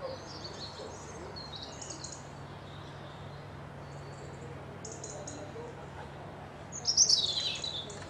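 Songbirds chirping in scattered short high calls, with one louder song phrase falling in pitch about seven seconds in. A faint steady low hum runs underneath.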